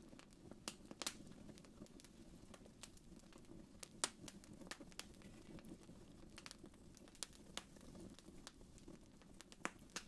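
Wood fire crackling faintly in a fireplace, with irregular sharp pops over a low, soft rumble of burning; one louder pop about four seconds in.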